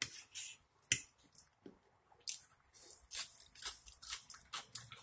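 Close-up chewing with wet mouth smacks, many short sharp bursts in quick succession, as a mouthful of steak and vegetables is eaten. A sharp click stands out about a second in.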